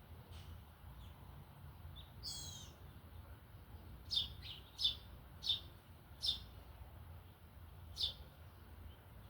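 Small songbirds calling: a short warbling call about two seconds in, then a run of sharp single chirps, over a low steady background rumble.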